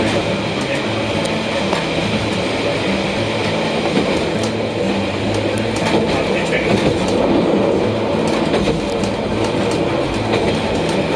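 Steady running noise of a Watarase Keikoku Railway diesel railcar heard from inside the cabin: a steady engine hum under the rumble of the wheels on the rails.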